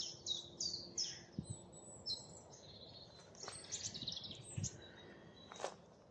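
Common chiffchaff singing its even run of high, downward-slurred notes, about three a second, through the first second and a half. Then a quicker twittering phrase from another songbird comes about halfway through, with a single sharp click near the end.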